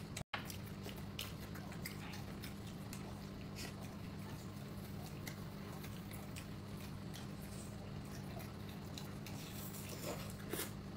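Faint eating sounds: quiet chewing with scattered light clicks and squishes, over a steady low hum.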